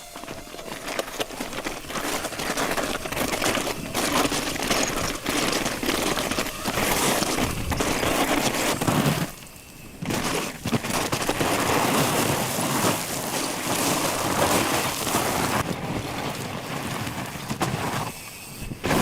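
Mountain bike being ridden hard over rough ground: tyres rolling and crunching, with a dense rattling clatter from the bike. The sound drops away briefly about halfway through and again near the end.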